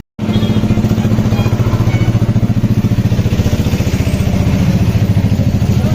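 A small vehicle engine running steadily with a fast, even throb.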